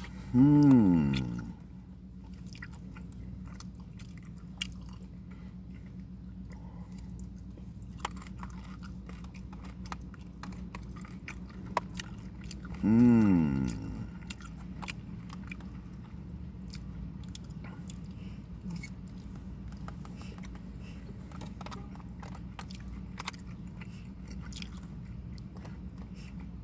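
A person chewing and biting food, with soft crunches, in steady close-up mouth sounds. Twice, about a second in and again near the middle, a short, loud vocal sound falls in pitch.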